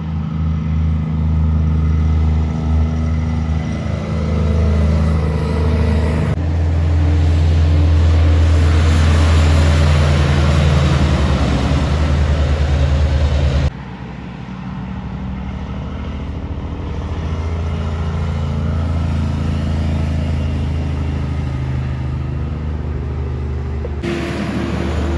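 Heavy diesel truck engines running as Kenworth trucks drive past, in four short clips joined by sudden cuts.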